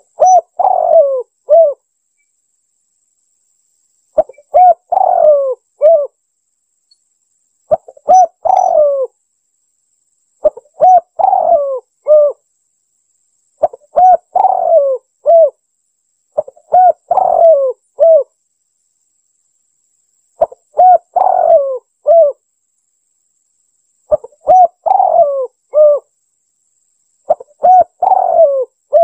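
Spotted dove (tekukur) cooing: the same short, several-note coo phrase repeated about every three seconds, played as a bird-lure call.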